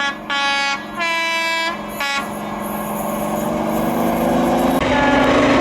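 Steam locomotive whistle of LNER Peppercorn A1 Pacific 60163 Tornado, sounding four short blasts, the second and third longest. Then the locomotive's exhaust and the train's running noise grow steadily louder as it approaches at about 90 mph, and near the end another whistle sounds and drops in pitch as it passes.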